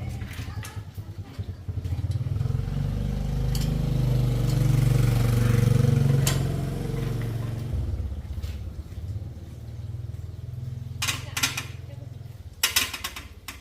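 A small engine running, growing louder toward the middle and then easing back, with a few sharp clatters near the end.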